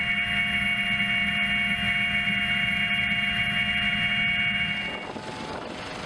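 Helicopter turbine engines running with a steady whine of several held tones; about five seconds in the whine drops out and gives way to a rougher, noisier engine sound.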